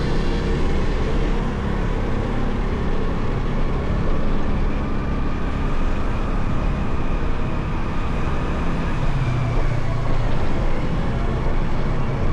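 Motorcycle engine running steadily under way, with wind and road noise over it. The engine note shifts a little about nine seconds in.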